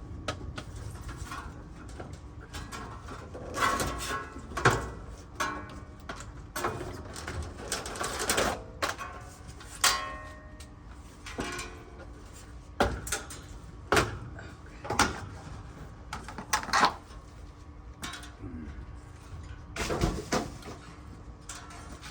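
Irregular knocks, clanks and scrapes of a heavy heat pump pool heater being worked loose and shifted by hand, with a few short squeaks.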